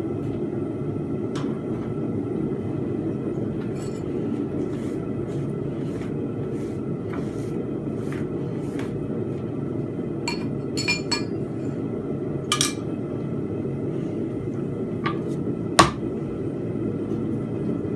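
Forged steel pegs and tools clinking against metal at irregular intervals over a steady low rumble. One clink rings out about two-thirds of the way in, and the loudest comes near the end.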